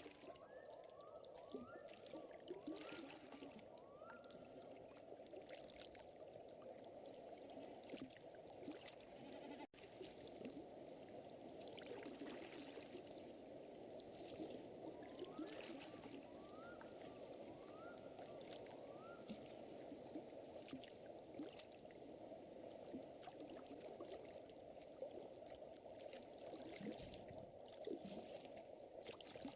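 Quiet nature ambience: a fire crackling softly over a steady wash of water. Twice a short rising call from an animal repeats, at about two a second, several times in a row.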